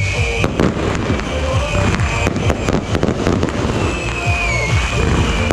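Aerial fireworks and firecrackers going off without pause: a dense stream of sharp pops and bangs over a continuous crackling din, with a high whistle that slides down about four seconds in.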